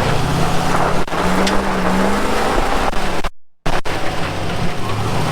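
Vehicle engines running hard under load during a recovery pull of a stuck Land Rover Defender, the engine note rising about a second and a half in. The sound cuts out completely for a moment about three and a half seconds in.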